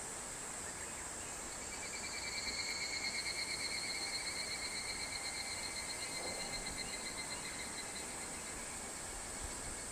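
Higurashi (evening cicada) calling: a rapid, pulsing high-pitched trill that swells about two seconds in, then slowly fades and drops slightly in pitch until it stops near the end. A steady high insect hiss runs underneath.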